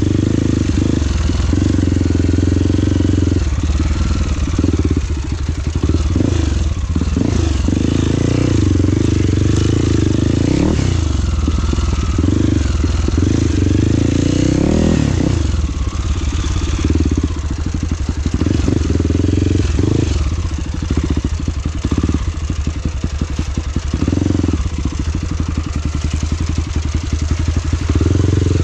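Trail motorcycle engine running under load, its pitch rising and falling repeatedly as it revs up and eases off along the trail.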